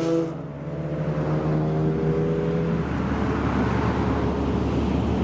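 Car engine exhaust running at low, steady revs, a droning note for the first few seconds that gives way to a rougher rumble.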